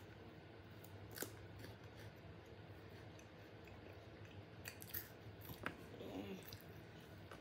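Faint chewing of a milk tea Kit Kat wafer bar: a few soft crunches and mouth clicks, once about a second in and several more around five to six seconds, over quiet room tone.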